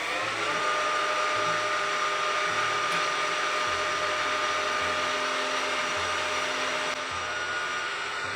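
Milling machine motor spinning up to speed, then running steadily with a whine, while the engraving cut is made under power feed. Near the end the pitch shifts slightly and it gets a little quieter.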